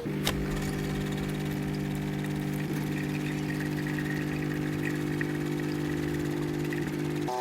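Steady mechanical hum of a motor or engine running at constant speed, with a single click about a quarter second in.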